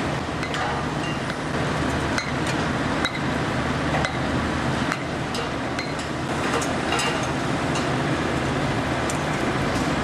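Construction-site noise: a steady machinery drone with irregular sharp metallic clinks and knocks scattered through it.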